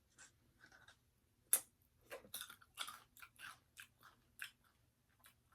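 Crispy fried chicken skin being bitten and chewed close to the mic: one sharp crackle about a second and a half in, then a run of short crunches.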